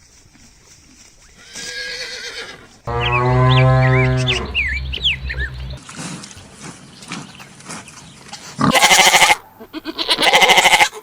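Farm livestock calling several times. A long, low, steady call comes about three seconds in, with small birds chirping over it. Two loud, harsh calls follow near the end.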